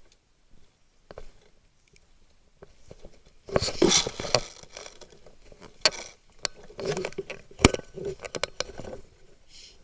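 Irregular scuffing and crunching with several sharp clicks and knocks, typical of an airsoft player moving with gear through a building; the loudest is a single sharp crack a little past halfway.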